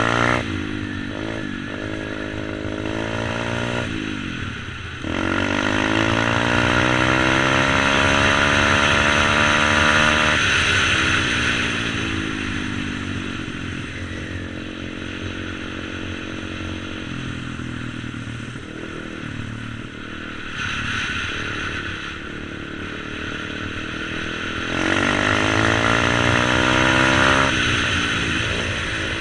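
125cc supermotard pit bike's single-cylinder engine revving up and easing off: the pitch climbs steadily for several seconds about a fifth of the way in, then falls away, and climbs again near the end.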